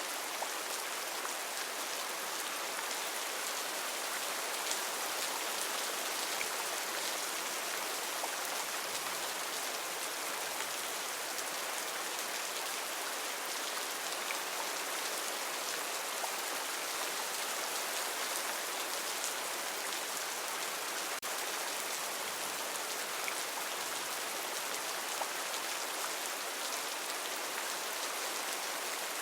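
Heavy rain falling steadily: a dense, even hiss of drops with fine individual drop ticks through it.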